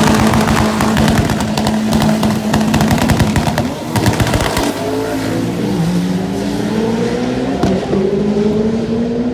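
A high-performance car engine crackling with rapid pops and bangs for the first four seconds or so, then an engine note rising steadily in pitch as it revs up.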